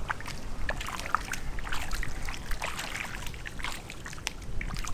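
Water splashing and trickling in short, irregular splashes.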